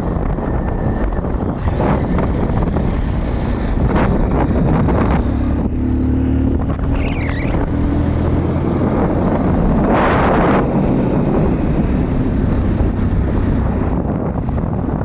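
Wind buffeting the microphone of a moving motorcycle, a dense low rumble with the vehicle running underneath and a stronger gust about ten seconds in.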